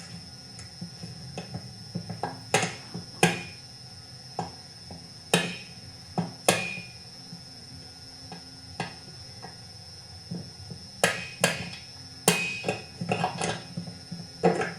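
Light hammer taps knocking the crankshaft out of a McCulloch CP125 chainsaw's engine block, about a dozen sharp metallic knocks at an irregular pace, each ringing briefly, over a faint steady hum.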